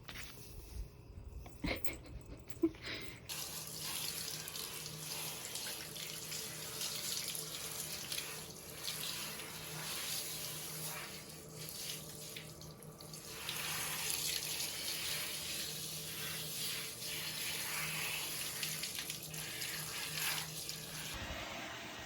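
Water running steadily from a tap, turned on about three seconds in and shut off near the end.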